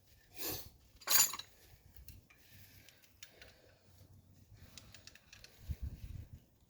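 Steel sockets and tools clinking and clattering while a socket is picked out for a suspension strut nut: two sharper clatters about half a second and a second in, then light clicks and a low knocking near the end.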